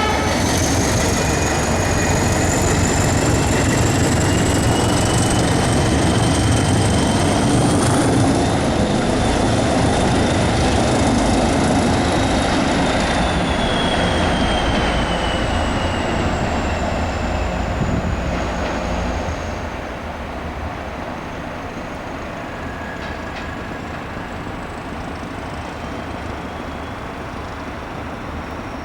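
Northern Ireland Railways 80 Class diesel-electric multiple unit running along the line. A high whine rises over the first several seconds and then falls away. The sound drops in level about 20 seconds in and then holds steady.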